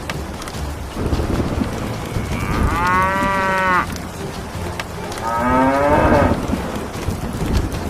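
A cow mooing twice, each call about a second long, the second starting lower and rising, over a continuous low rumbling noise.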